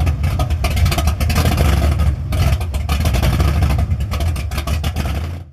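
A car engine running loud and rough, cutting off suddenly near the end.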